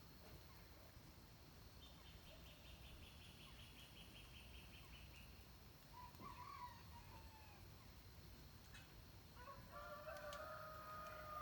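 A distant rooster crowing once, about two seconds long, near the end. Earlier, small wild birds call: a fast high trill from about two seconds in and a short chirp around six seconds.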